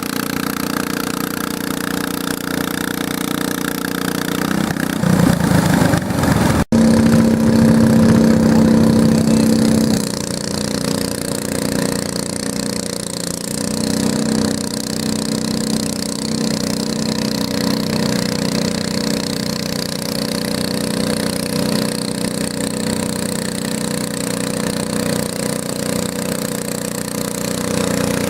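Garden tractor engine running steadily, growing louder about five seconds in and easing back about ten seconds in, with a brief break in the sound near seven seconds.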